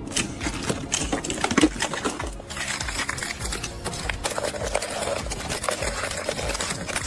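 Ice crunching and crackling in a rapid run of sharp clicks, which thicken into a continuous crackle about two and a half seconds in.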